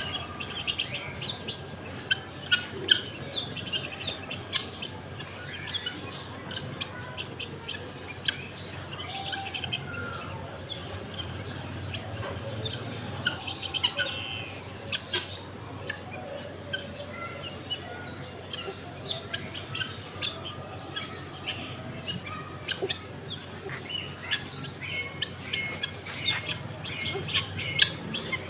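Many small birds chirping at once: a dense, continuous stream of short, high chirps overlapping one another.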